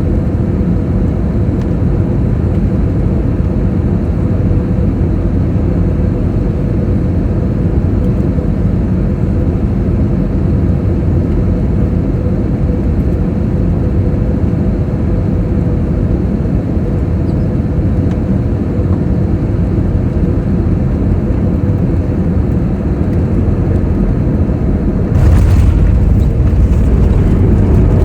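Cabin noise of a LATAM Airbus jet during its landing: a loud, steady rumble of engines and airflow with a faint steady hum. About 25 seconds in it suddenly grows louder and deeper.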